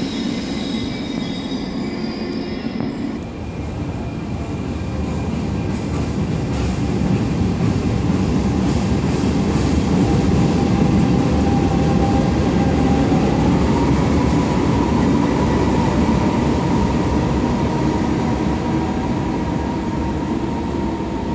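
A train rolling through an enclosed underground station: a heavy rumble that swells over the first ten seconds and then slowly eases. A thin wheel squeal comes in about ten seconds in and rises slightly in pitch a few seconds later.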